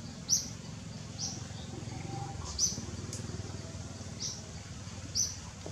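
A bird calling in short, high chirps, five in all, roughly a second apart, over a steady low rumble.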